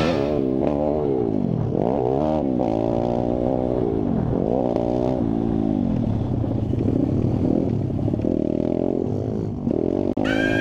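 Pit bike engines revving and riding, the engine note rising and falling again and again as the bikes accelerate, shift and roll off.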